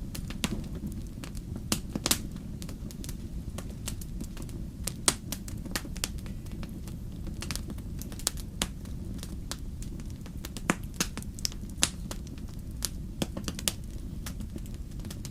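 Wood fire burning in a fireplace: irregular sharp crackles and pops over a steady low rumble of the flames, the sharpest pops about 2 and 5 seconds in.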